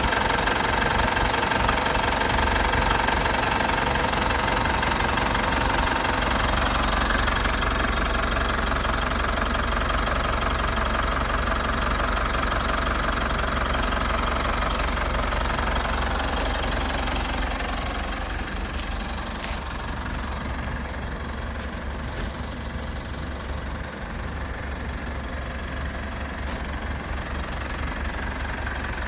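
Mitsubishi 4N15 2.4-litre four-cylinder turbo-diesel idling steadily with a diesel clatter. It gets a little quieter past the middle.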